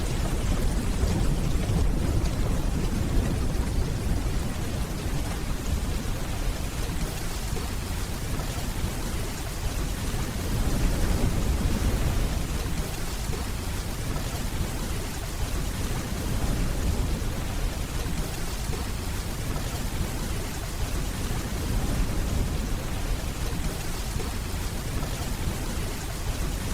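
Steady rainfall hissing under a low rolling rumble of distant thunder, which swells and eases off several times.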